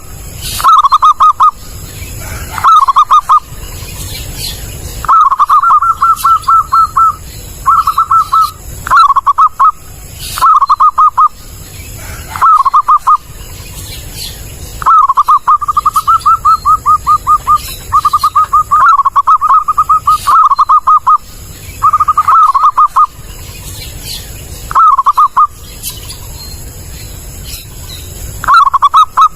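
Zebra dove (perkutut) calling loudly: repeated phrases of quick, stuttering coo notes, some short and some drawn out over a couple of seconds, coming one after another about every two seconds.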